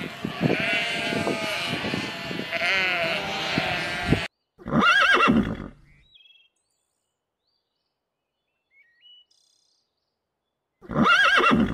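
A flock of sheep bleating, many overlapping calls, cutting off abruptly about four seconds in. Then a horse whinnies, a call of about a second with a wavering pitch, and whinnies again near the end, with a few faint bird chirps in between.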